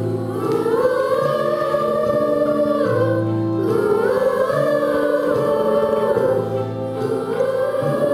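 A choir singing a slow song in long held phrases over sustained low accompaniment chords, with a short break between phrases about three seconds in and another near the end.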